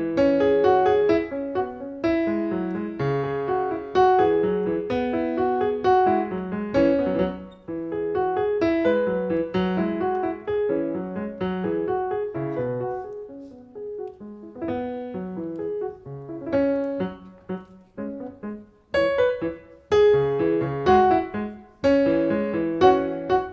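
Piano music: rapid, many-voiced keyboard passages of separate struck notes that ring and decay, with brief lulls twice along the way.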